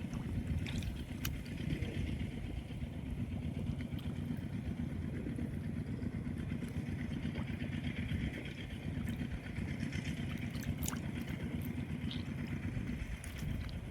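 A small engine running steadily, a continuous low drone, with a faint higher hiss over it and a few scattered light clicks.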